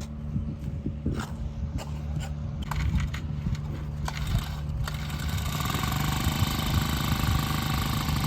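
An engine running steadily with a low hum, with scattered sharp clicks and knocks over the first few seconds. From about five seconds in, a rougher, louder noise builds up.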